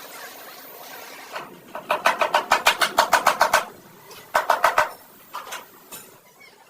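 Rapid run of sharp metallic clicks, about eight a second, in two bursts, the first nearly two seconds long and the second about half a second, with a few single clicks after.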